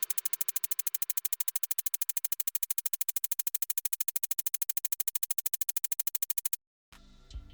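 Fast, perfectly even electronic ticking, about ten sharp clicks a second, that cuts off abruptly near the end.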